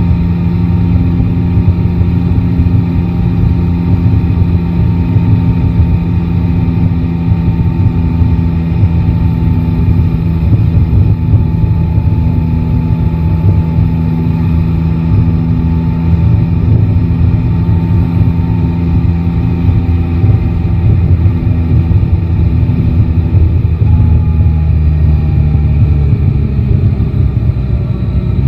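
Yamaha Tracer 9 GT's three-cylinder engine running at fairly steady revs while the motorcycle is ridden through city traffic.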